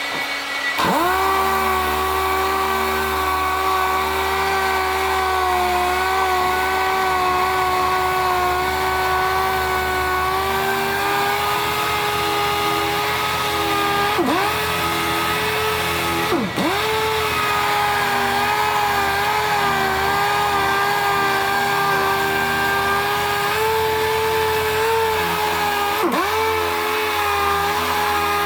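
Power sander running steadily with a high motor whine. Its pitch drops briefly and recovers three times as it is loaded.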